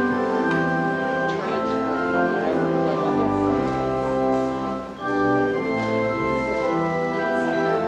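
Organ playing slow, sustained chords that change about once a second, with a brief break between phrases about five seconds in.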